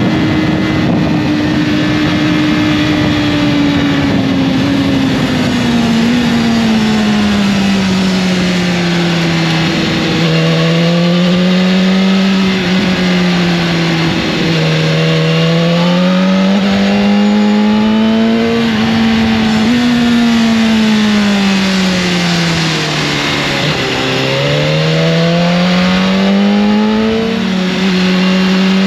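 Motorcycle engine at speed on a circuit, its pitch climbing and sagging repeatedly as the throttle opens and closes, with a few abrupt dips such as at gear changes. Wind noise runs underneath.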